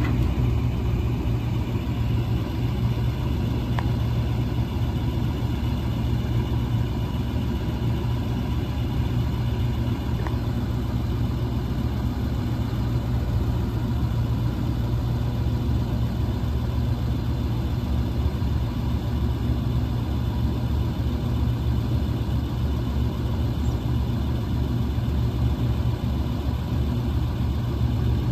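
A 7.3L International diesel engine idling steadily, with no revving.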